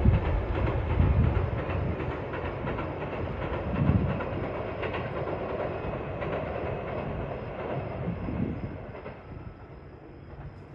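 Local train running over a steel truss railway bridge, a steady rumble and clatter of wheels that fades away from about eight seconds in.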